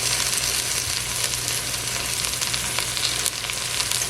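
Sliced okra frying in vegetable oil in a pan on low heat: a steady sizzle with scattered small pops and crackles.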